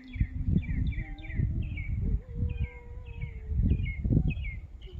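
A songbird singing a rapid, continuous series of short high chirps, each falling in pitch, about three or four a second. Irregular low rumbling gusts of wind buffeting the microphone are the loudest sound.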